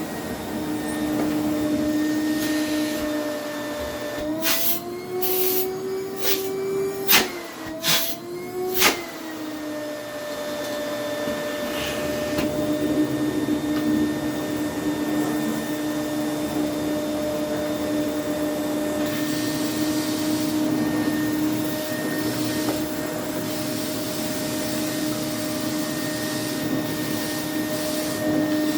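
AEG Vampyr 406 1000 W vacuum cleaner running with a steady motor hum and airflow rush. Partway through, the motor pitch rises slightly for a few seconds amid several sharp knocks, then settles back to a steady tone. The owner says it could sound a lot better.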